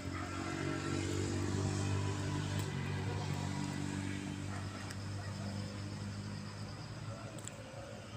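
Lorry engine running with a steady hum that swells over the first couple of seconds, then gradually eases off.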